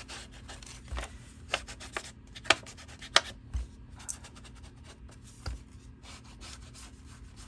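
Paper being rubbed and scraped by hands at a crafting table, in quick short strokes with a couple of sharp taps about two and a half and three seconds in.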